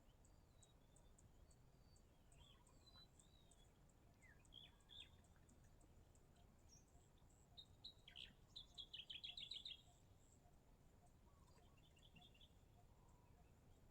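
Faint birds calling and chirping, with a quick trill of rapidly repeated notes about eight seconds in, over faint steady high ticking.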